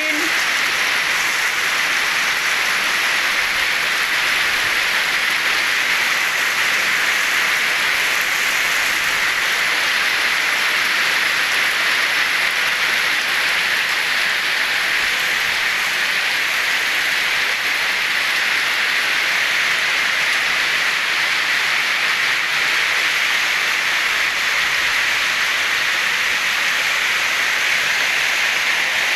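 Heavy rain falling on a pond's water surface, a steady dense hiss of drops.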